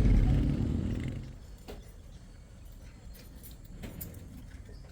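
Low vehicle engine rumble fading away over the first second and a half, followed by a few faint clicks and light rattles.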